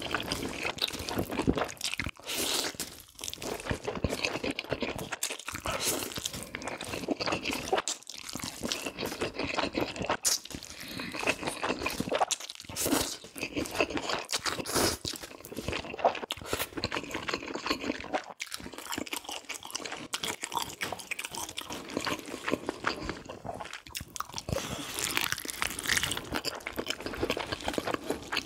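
Close-miked eating: a person crunching and chewing mouthfuls of sous-vide haxen pork knuckle with spicy fried noodles, in a steady run of irregular crunches and bites.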